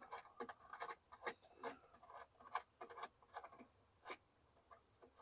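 Faint, irregular metallic clicks and ticks as a nut is threaded by hand onto a tie rod.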